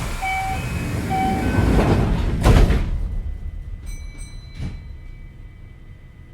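Passenger doors of a Kintetsu 5800 series train sliding shut: a rush of sliding noise with two short electronic tones, ending in a loud thud as the doors close about two and a half seconds in.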